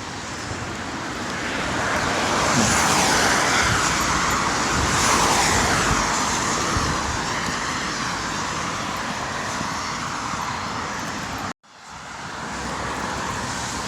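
Heavy rain pouring down, a steady hiss that swells a couple of seconds in. The sound cuts out for an instant near the end.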